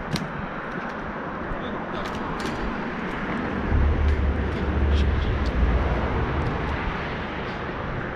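Steady outdoor rumble that swells into a deep, louder rumble about four seconds in and fades a few seconds later, with scattered light ticks.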